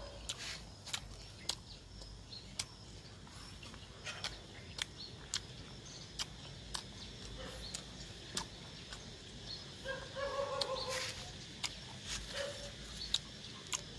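A person chewing and smacking while eating, making scattered wet mouth clicks. A short pitched call sounds about ten seconds in.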